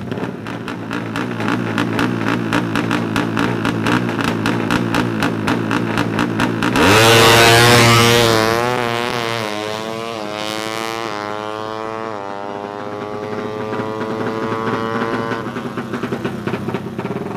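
Tuned 200cc underbone drag-bike engine running with a fast pulsing sound for about seven seconds, then launching hard. Its pitch climbs, drops and climbs again through several upshifts as it accelerates away and fades.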